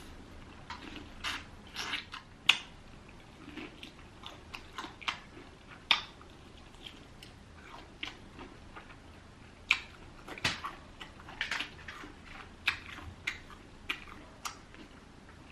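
Close-miked chewing and biting into crispy fried chicken: irregular crunches and mouth clicks, with a few sharp, louder bites standing out.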